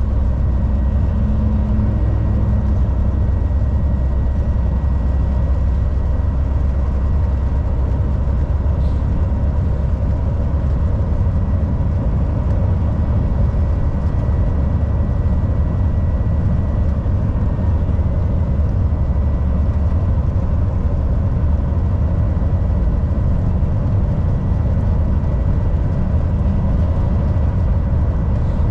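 Volvo VNL 760 semi truck driving, its engine and the road giving a steady, loud low rumble with a thin, even high whine above it.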